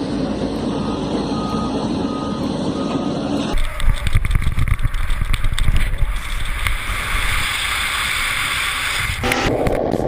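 Heavy vehicle's reversing alarm beeping about twice a second over a running engine, then a sudden switch to a louder, rough low rumble with hiss.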